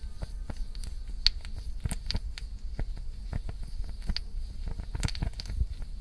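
Real Flame gel fuel burning in its can, giving off irregular small crackles and pops over a low steady rumble, not super loud.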